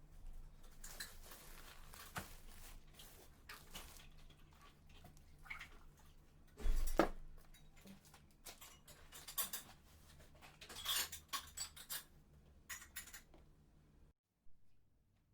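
Scattered light clicks and clinks of small objects being handled, with one louder knock about seven seconds in, over a faint low hum that cuts off near the end.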